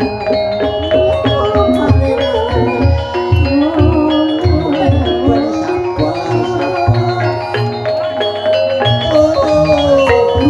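Gamelan music accompanying an ebeg dance: struck metal and wooden mallet instruments ringing over a regular low drum beat, with a wavering melody line above.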